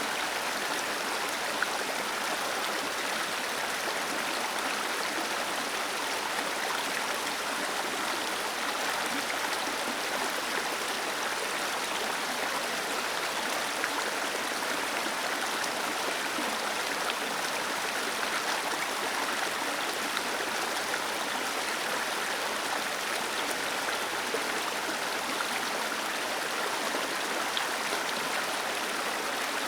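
Waterfall: water gently cascading and splashing in a steady, even rush, bright and hissing with little deep rumble.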